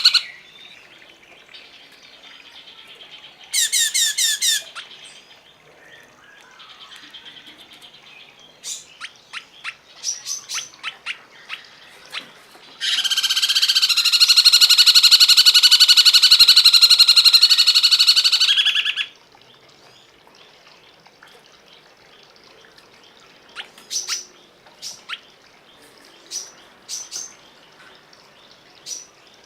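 Songbird calling: a quick burst of chirps about four seconds in, then scattered sharp short calls, then a loud buzzing trill held for about six seconds in the middle, and a few more short calls near the end.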